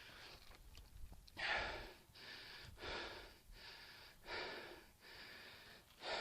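A person breathing hard and fast, winded from pedalling a bicycle up a hill: a steady rhythm of heavy breaths in and out, a stronger and a weaker one in turn. The sound cuts off abruptly at the end.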